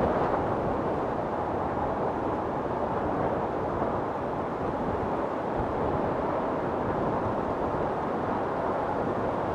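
Wind storm: strong wind blowing in a continuous, even rush of noise, a little stronger at the very start.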